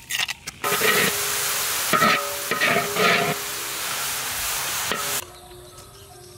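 Pieces of fish coated in green herb paste sizzling as they fry in a metal pan, stirred with a metal spoon. The sizzle starts about half a second in and cuts off suddenly about five seconds in.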